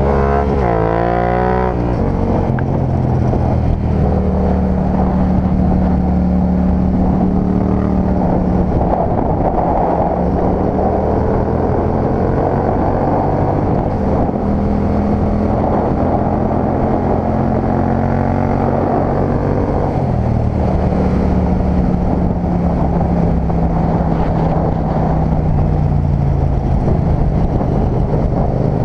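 Yamaha MT-07's 689 cc parallel-twin engine under way with wind rush. The revs climb through the first couple of seconds and break off at a gear change, then the engine cruises with its pitch rising and falling gently.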